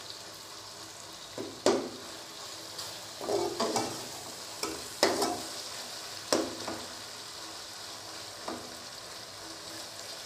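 Onions and chopped tomatoes sizzling in oil in a metal pot while a metal spatula stirs them. The spatula scrapes and knocks against the pot several times, the loudest strokes about 2, 5 and 6 seconds in.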